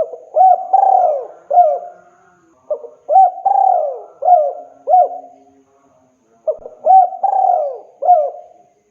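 Spotted dove (tekukur) cooing: three phrases about three and a half seconds apart, each a few short hoots around one longer, falling coo. It is the male's advertising song, used to call females.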